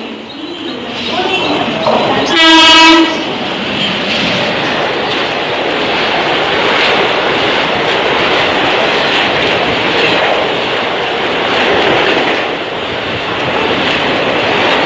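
Indian Railways WAP-7 electric locomotive sounds a short air-horn blast about two and a half seconds in as it approaches. Then the express runs through at speed, with the steady rushing and clatter of coaches passing close by on the rails.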